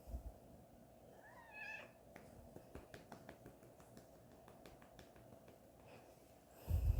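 A domestic cat meows once, a short call rising in pitch, about a second in. Light clicks and taps follow over the next few seconds, with a louder low thump near the end.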